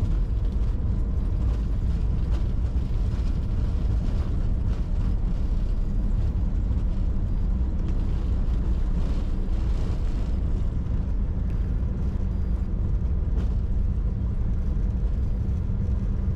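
Steady low rumble inside the cockpit of a Bombardier Challenger 605 during the landing rollout: its two CF34 turbofans in reverse thrust, with airflow and the wheels rolling on the runway as the jet decelerates.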